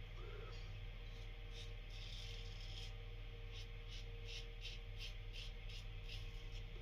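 Safety razor blade scraping through lathered stubble in a quick run of short strokes, about three a second, faint.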